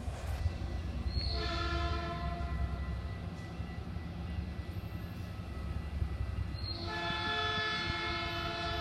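Train air horn sounding a chord of several notes in two long blasts, the first about a second and a half in and the second near the end, over a steady low rumble.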